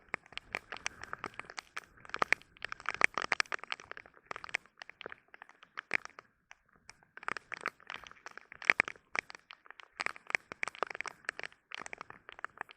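Heavy rain falling, its drops striking close by as dense, irregular clicks and cracks that come in thicker and thinner spells.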